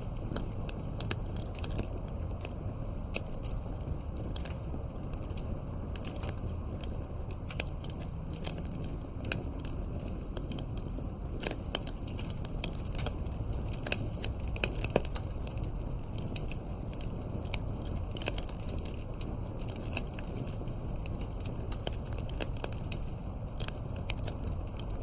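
Campfire burning: irregular sharp crackles and pops over a steady low rush of the flames, with a few louder pops.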